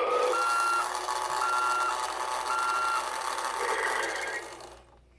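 Road Rippers toy police car's electronic sound effect from its small speaker: three reversing beeps about a second apart over a recorded engine noise, fading out near the end.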